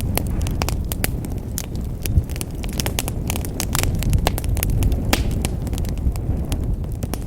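Wood fire burning in a fireplace: a low, steady rumble of flames with frequent sharp crackles and pops.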